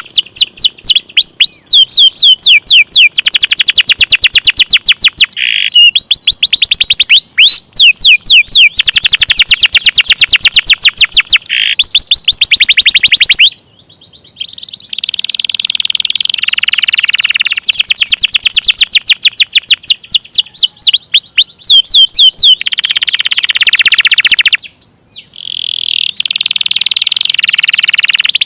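Domestic canary singing loud, long rolling trills of fast repeated notes, with short breaks about halfway through and near the end.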